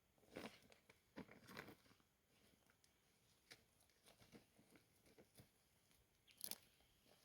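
Faint, scattered crunches and clicks: a few in the first two seconds, smaller ones after, and one sharper, louder click near the end.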